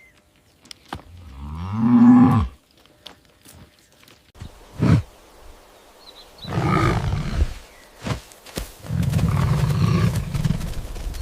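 A large animal's deep calls: three long calls, the first swelling to a loud peak with its pitch falling before it breaks off, and a short thump between the first and second.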